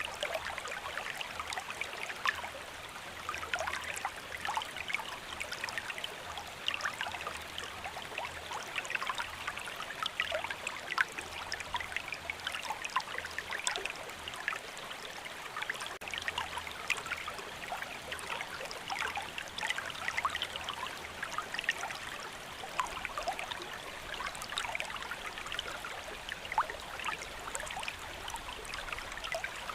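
Steady rain: a dense, even hiss of countless small drops ticking.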